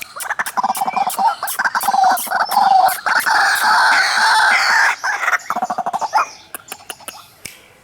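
White-breasted waterhen calling: a fast series of croaking notes that runs together into a continuous loud chatter in the middle. It breaks back into separate notes and fades away near the end.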